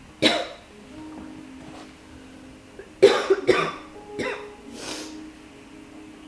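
A woman with a sore throat coughing: one sharp cough just after the start, then a run of several coughs about three seconds in, under faint background music.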